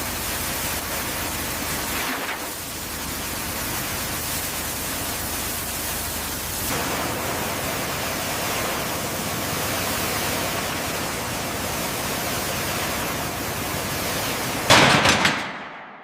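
Steady hiss of a high-pressure water jet blasting a surface clean. The sound shifts in character twice. A sharper, louder burst comes near the end before it fades away.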